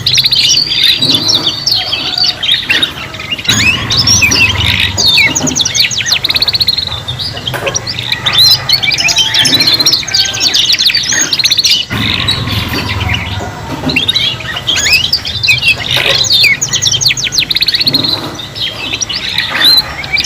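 Three young domestic canaries singing together, a continuous overlapping stream of rapid trills, chirps and warbling notes.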